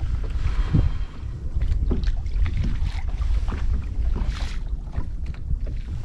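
Wind buffeting the microphone on a small drifting boat, with water slapping against the hull and scattered light knocks.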